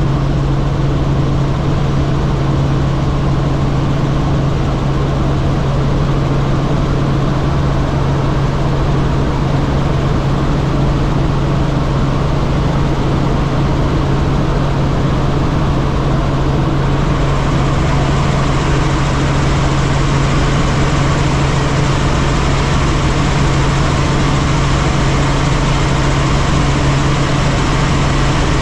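Helicopter running steadily: a constant low hum over a steady rush of noise, the hiss growing brighter a little over halfway through.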